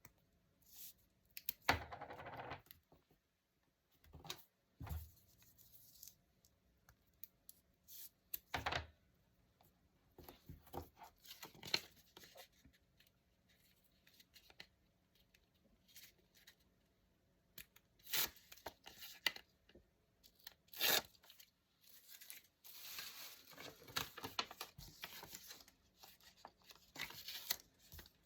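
Paper being torn in short irregular rips, mixed with rustling and a few sharp taps from handling paper, with a longer run of tearing and rustling near the end.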